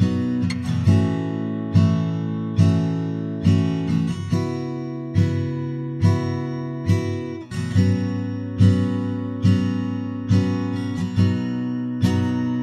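Music: acoustic guitar strumming chords at a steady pace, about one strum every second.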